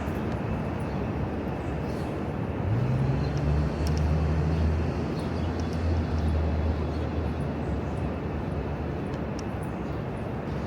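City street traffic noise with a steady rumble. A heavy vehicle's engine hum comes in about three seconds in, rising briefly in pitch, and fades out a few seconds later.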